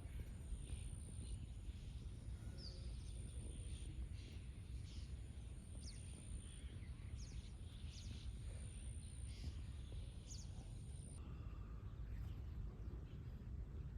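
Outdoor ambience: a low steady rumble with scattered short bird chirps, and a high insect-like buzz that comes and goes in stretches, then stops about eleven seconds in.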